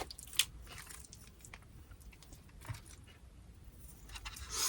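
A person chewing a mouthful of carne asada nachos close to the microphone: soft, wet chewing with scattered small crunches of tortilla chip. A louder noisy swell comes near the end.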